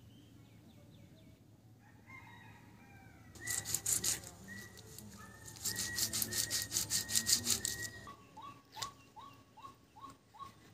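Birds calling: a run of rapid, evenly spaced high chirps over held tones in the middle, then a short falling call repeated about three times a second near the end.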